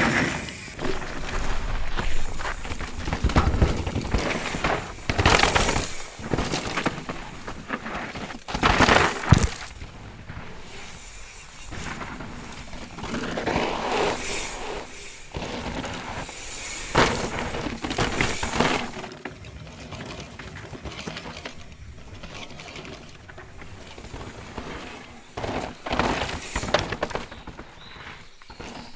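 Mountain bike ridden hard down a rough trail: tyres crunching over dirt and rock, with repeated sudden knocks and clatters from impacts on the terrain.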